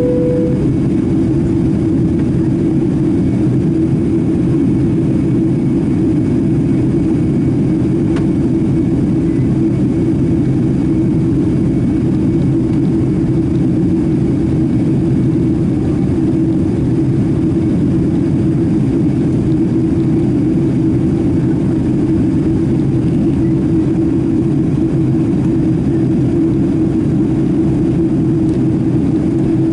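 Steady noise of a Boeing 767-300ER's jet engines and rushing air, heard from inside the passenger cabin. It holds even and unchanging throughout, strongest in the low range, and a short steady tone ends just after it begins.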